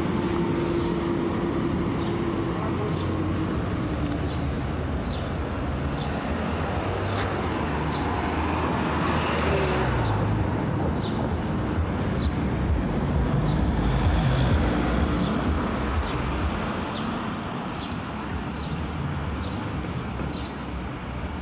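Road traffic: cars driving by on a street, a steady run of engine and tyre noise. It swells as vehicles pass, with an engine's pitch falling as one goes by about halfway through.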